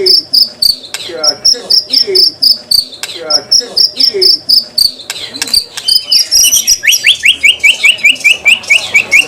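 White-rumped shama (murai batu) singing harsh, rapid 'besetan' phrases: a high chirp repeated several times a second over lower falling notes, switching near the end to a fast run of short rising notes, about six a second.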